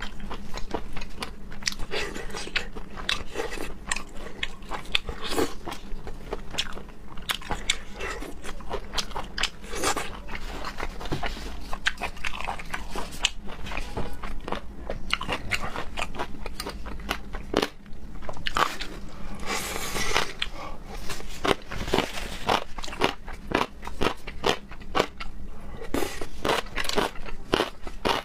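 Close-miked eating of raw seafood: steady chewing with dense, irregular crunches and wet clicks, with no pause.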